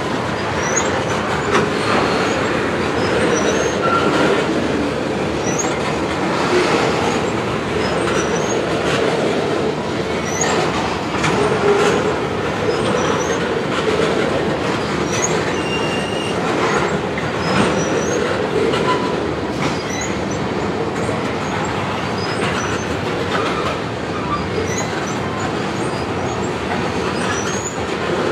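Freight train of loaded tank cars passing close by: a steady rumble of steel wheels on rail with irregular clicks from the wheels over rail joints and occasional brief high wheel squeals.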